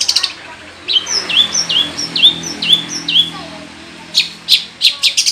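Long-tailed shrike (cendet) singing: a brief rapid chatter, then a run of about seven repeated down-slurred whistles, then a few sharp chips near the end.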